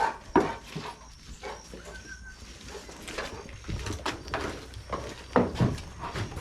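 An excited pet animal greeting someone with a run of short calls, the loudest near the start and about five seconds in.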